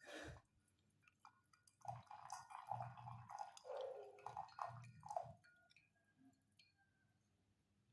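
Faint handling of gongfu teaware after a leaf rinse: a run of soft, irregular knocks and small wet sounds from about two seconds in to about five seconds.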